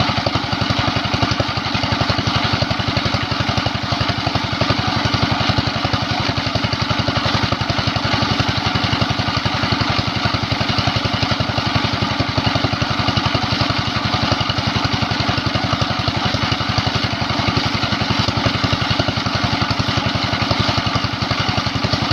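Small single-cylinder diesel water-pump engine running steadily, its firing strokes coming in a fast, even chug.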